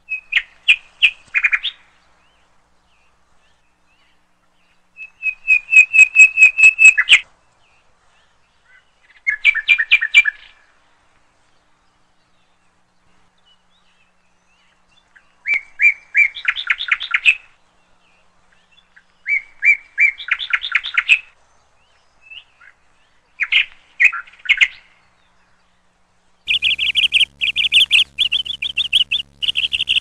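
A small songbird singing in short phrases of rapid chirps, with pauses of a few seconds between them. Near the end a longer run of chirps comes in over a low steady hum.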